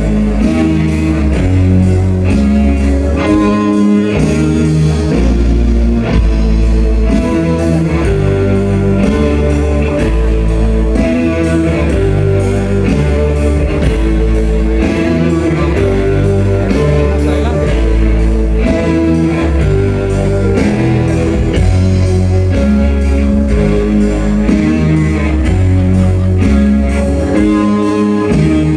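Band music with guitar over a bass line that steps from note to note every second or two, playing on steadily.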